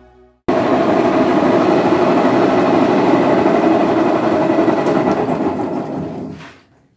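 Brastemp Clean washing machine on its spin cycle, making a loud, steady, rough noise that cuts in suddenly about half a second in and fades out near the end. This is the spin noise for which the drum bearings, seal and mechanism are to be replaced.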